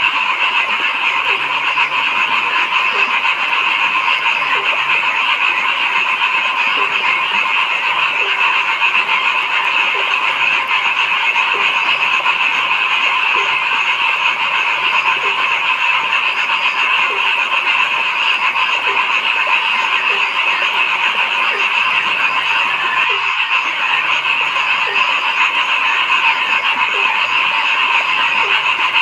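A dense chorus of frogs croaking, many calls blending into one continuous din, with a lower single call repeating about once a second.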